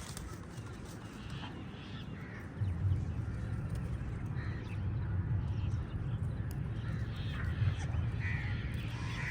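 Many crows cawing, short calls overlapping one another. About two and a half seconds in, a steady low rumble starts under the calls and is the loudest sound.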